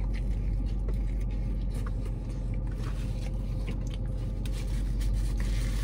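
Biting into and chewing a burger, with faint wet mouth clicks, over the steady low hum of a car cabin.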